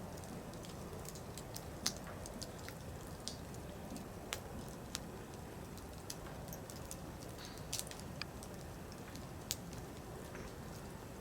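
Firewood burning: irregular sharp crackles and pops over a low steady rush of the flames, with the loudest pops about two seconds in and near the end.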